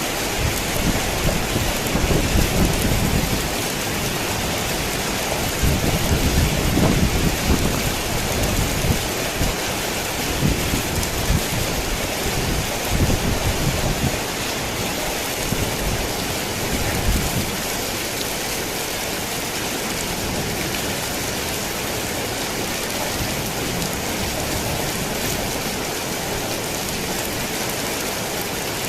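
Rain pattering steadily on a tin roof, with thunder rumbling in repeated swells through roughly the first half; after that only the rain remains.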